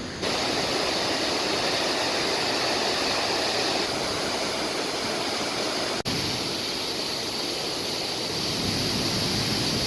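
Waterfall on a small mountain creek, falling water rushing in a steady, even hiss, with a momentary break about six seconds in.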